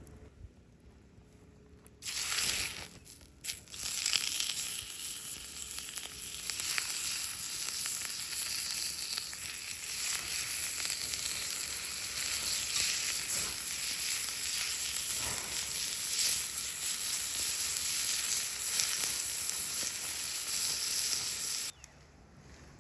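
Food sizzling and crackling as it fries in a hot pan. The sound starts abruptly about two seconds in and cuts off sharply shortly before the end.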